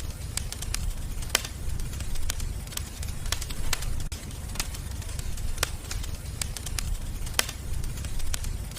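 Wood fire crackling in a fireplace: irregular sharp pops and snaps, about one or two a second, over a steady low rumble of the burning fire.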